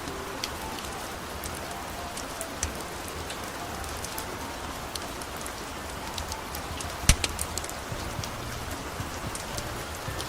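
Steady rain with a wood fire crackling: an even hiss of rain, scattered with sharp pops and snaps, the loudest about seven seconds in.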